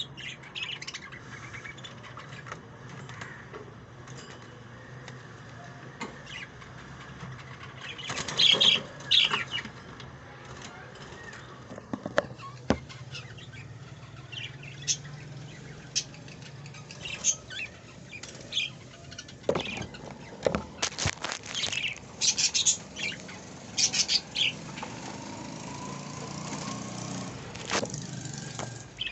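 A bird flapping its wings in short, irregular bouts, with a few brief chirps, over a faint low hum.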